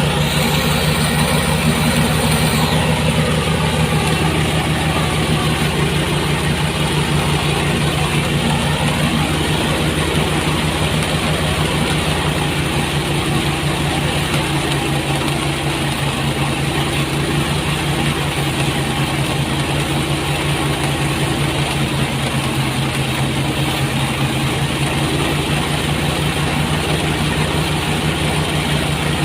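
Engine-powered rice threshing machine running steadily, a loud, unbroken mechanical drone.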